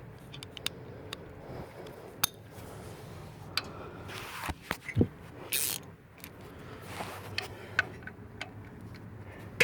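Hand tools being handled: scattered metal clicks and clinks of a socket and ratchet being readied for the oil drain plug, with a heavier knock about five seconds in and a short rasp just after.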